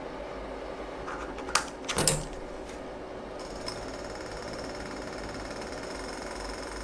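Miniature model engine running with a fast, steady mechanical clatter. Two louder knocks come about one and a half and two seconds in, and a steady high whine joins about halfway through.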